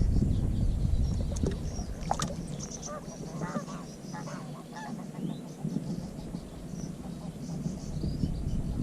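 Goose honking a few times about two to three seconds in, over small birds chirping and wind rumbling on the microphone.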